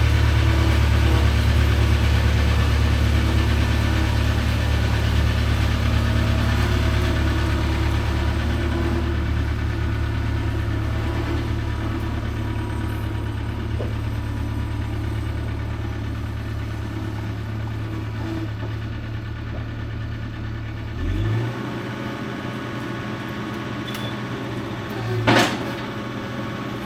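New Holland LX665 skid steer's diesel engine running at a steady idle. About 21 seconds in the deepest part of its rumble drops away, and a short knock comes near the end.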